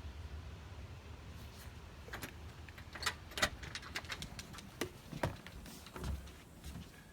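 Irregular light metallic clinks and clicks of metal being handled, starting about a second and a half in, over a faint low hum.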